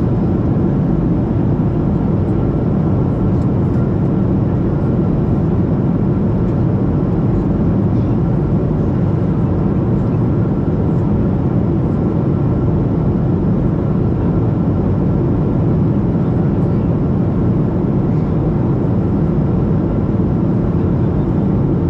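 Steady cabin noise inside a Boeing 737-700 in descent: an even rush of engine and airflow noise, mostly low in pitch, with a faint steady high tone.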